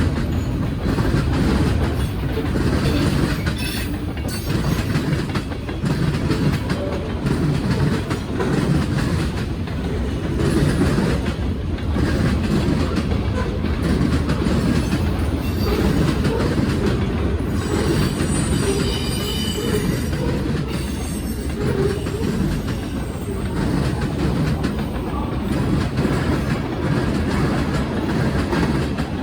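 Freight train cars rolling past, a steady rumble with wheels clacking over the rail joints. About eighteen seconds in comes a brief high wheel squeal.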